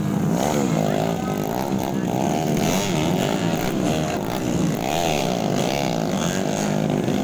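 Several dirt-bike engines racing, revving up and down and overlapping one another.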